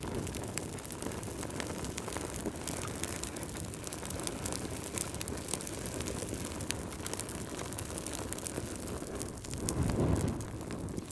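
Wood fire crackling and popping over a low steady rumble of burning, with a louder swell of the rumble near the end.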